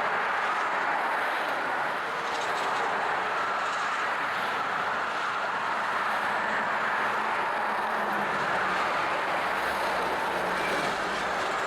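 A train rolling past: a steady rumble and hiss of wheels on rail, with a few faint clicks near the start.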